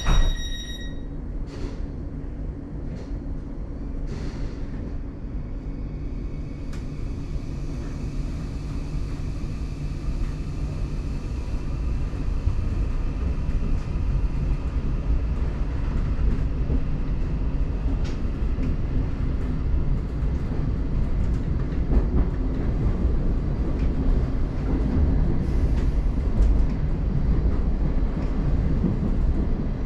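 Class 717 electric train pulling away from a station and running into the tunnel, heard from inside the carriage. A door-warning tone ends about a second in with a short thump, then the low rumble of wheels and running gear grows louder as the train gathers speed.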